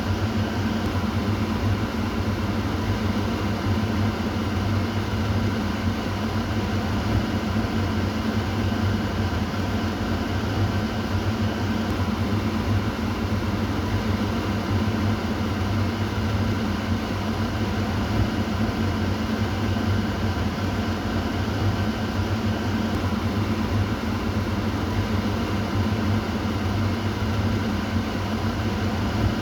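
Kitchen exhaust fan running steadily, a constant whooshing air noise over a low motor hum.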